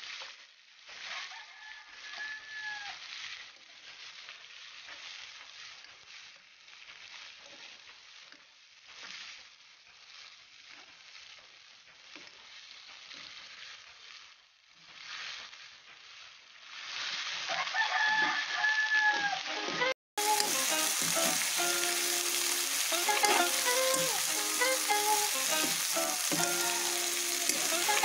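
Chicken feet sizzling in a nonstick wok as they are stirred with a spatula. A rooster crows twice, a couple of seconds in and again about two-thirds through. After a sudden cut the frying is louder, with music playing over it.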